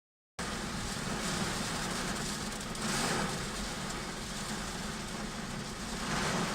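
Heavy rain pouring down in a summer storm: a steady hiss that cuts in just after the start and swells twice, about halfway and near the end.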